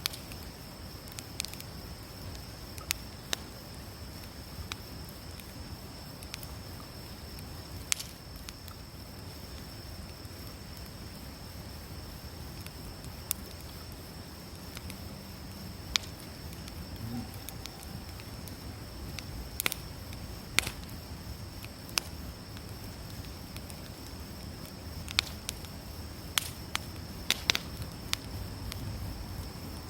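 Wood campfire crackling, with irregular sharp pops and snaps over a low steady rush of burning. A steady high insect drone runs behind it.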